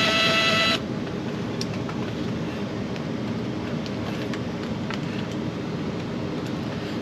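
A cordless drill/driver whines at a steady pitch and stops sharply less than a second in. After it comes a steady background rumble with a few faint clicks.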